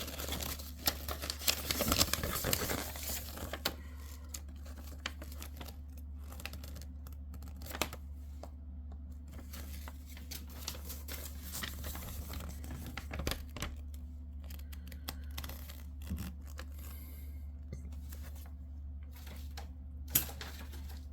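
Plastic and paper packaging being handled, rustling and crinkling. It is busiest in the first few seconds, then thins to occasional small clicks and rustles over a steady low electrical hum.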